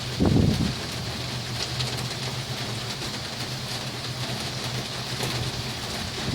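Heavy rain falling steadily, with a steady low hum beneath it. A brief low thump comes about a quarter second in.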